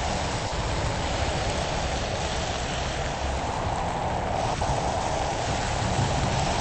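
Steady rushing storm noise with a low rumble underneath.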